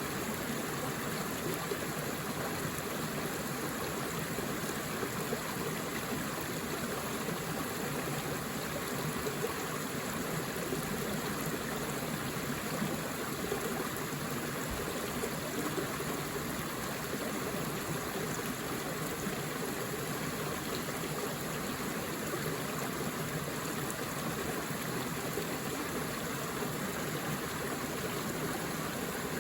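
Forest stream flowing: a steady rush of running water with no breaks or separate events.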